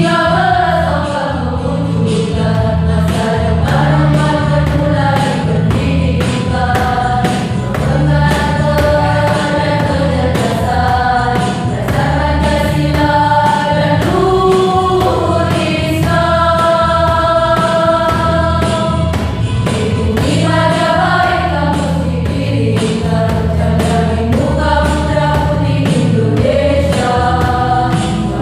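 A choir singing a song in parts, with long held notes that slide from one pitch to the next.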